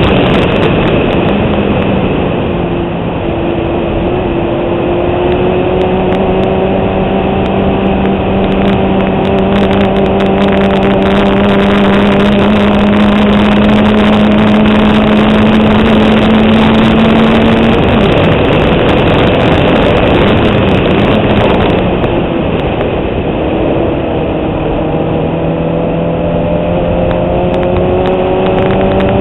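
Fiat 127 Abarth's four-cylinder engine at racing speed, its note climbing slowly under load for long stretches, easing off about two-thirds of the way through, then climbing again near the end. Wind noise rushes over the microphone throughout.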